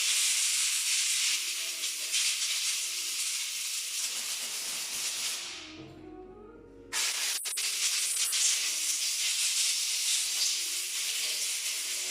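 A loud, steady, high-pitched hiss of a pressurised jet. It dies away about six seconds in, starts again abruptly a second later with a sharp click, and tails off at the end.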